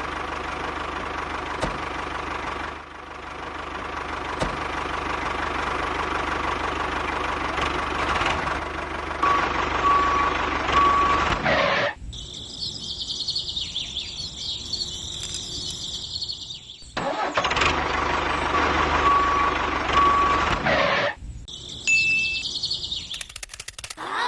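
Mini tractor's motor running steadily with a constant hum. About halfway through it cuts off abruptly and a higher-pitched sound with little low end takes over for several seconds; then the motor sound returns before cutting off again near the end.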